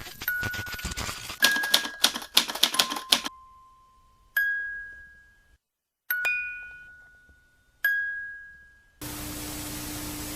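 Rapid typewriter key clatter for about three seconds, followed by three single bell dings that each ring out and fade, spaced about a second and a half apart. Near the end a steady hiss of static starts.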